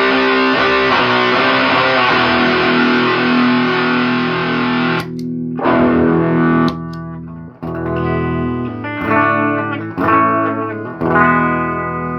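Electric guitar with heavy fuzz distortion played through a solid-state amplifier, driven by a Fuzzimp Shroot into a Super Cool Pedals 77 Fuzz Blender. Thick sustained fuzzy chords ring for about five seconds, stop, and then give way to separate struck chords and riffs.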